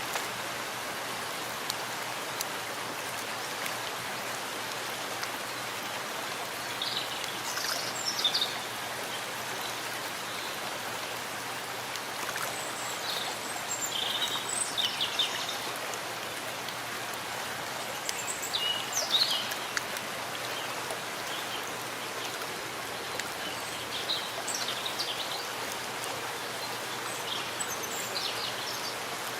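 Steady rain with water trickling. Birds chirp briefly every few seconds.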